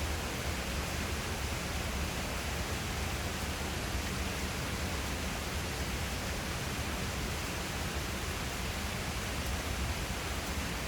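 Steady rain falling, an even hiss with a low rumble underneath and no distinct thunderclap.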